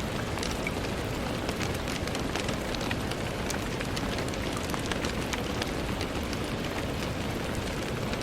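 Steady rain falling on a window, a dense even hiss with many small drop taps scattered through it.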